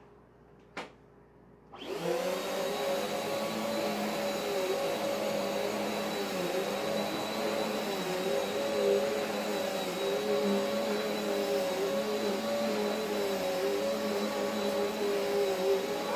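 Eureka AirSpeed Exact pet upright vacuum cleaner: a click, then about two seconds in the motor starts and runs steadily over carpet with a constant high whine.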